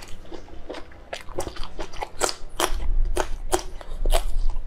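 Close-up biting and chewing of a raw red chili pepper: a quick, irregular run of crisp crunches, several a second, growing louder about halfway through.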